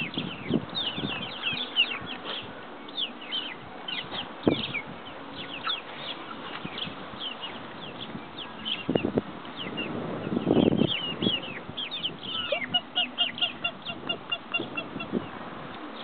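Baby chicks peeping: many short, high, falling chirps overlapping one another, with a quick run of evenly spaced peeps near the end. A single knock comes about four seconds in, and some rustling around ten seconds in.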